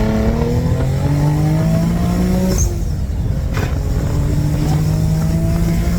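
Twin-turbo VQ37 V6 of an Infiniti G37 under a hard full-throttle pull from 60 mph, the engine note climbing steadily. About two and a half seconds in it drops sharply with an upshift, then climbs again.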